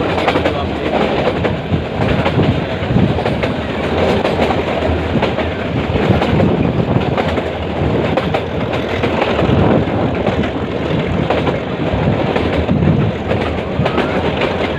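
Metre-gauge passenger train running along the track: a steady, loud rumble and rattle of the coaches, with wheels clacking over the rails.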